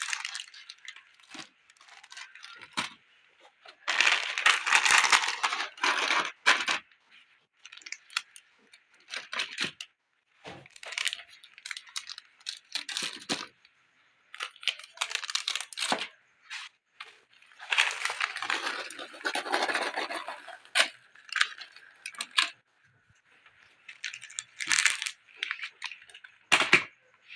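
Plastic snack packets rustling and crinkling as they are handled and set into a drawer, with small clicks and clatters of items knocking together, in irregular bursts with short pauses.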